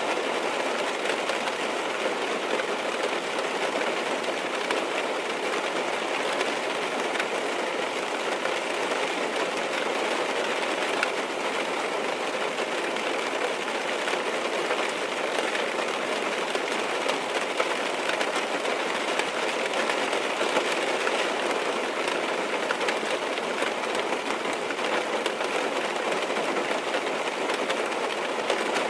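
Steady rain falling on a car's roof and windows, heard from inside the cabin: an even, dense patter that does not change.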